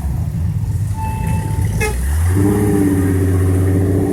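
Car traffic going by, with a brief toot about halfway through. Then a car's engine and exhaust give a loud, steady low drone as it passes, stopping near the end.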